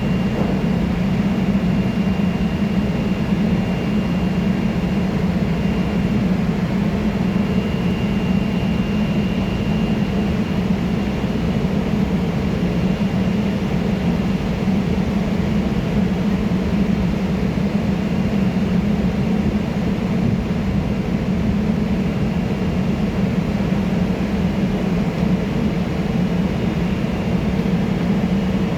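EF64-1000 series electric locomotive's steady droning hum, like its cooling blowers running, with a faint high whine that comes and goes.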